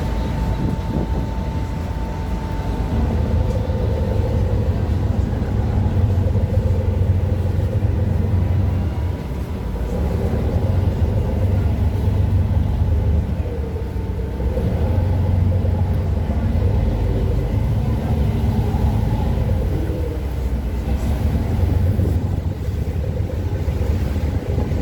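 A boat's engine drones steadily, swelling and easing every few seconds, with wind noise on the microphone.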